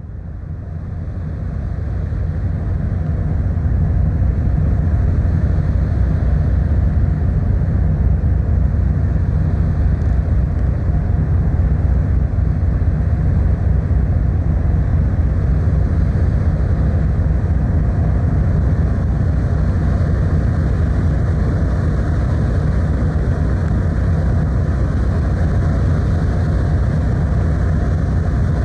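Steady low rumble of a car ferry under way, its engines droning with rushing water noise, fading in over the first few seconds and then holding level.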